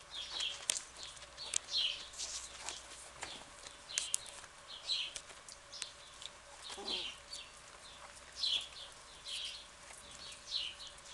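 Birds chirping repeatedly, short high chirps about one or two a second, mixed with scattered sharp clicks. One lower-pitched call sounds about seven seconds in.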